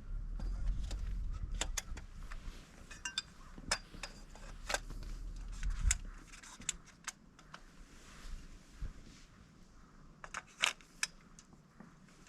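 Camping gear being handled: scattered light metallic clinks and jangles, with a low rumble through the first half that fades out about six seconds in.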